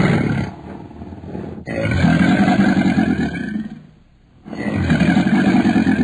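Nile crocodile bellowing: a series of long, deep, rumbling calls, each about two seconds long. One call ends just after the start, a full one follows, and a third begins about halfway through.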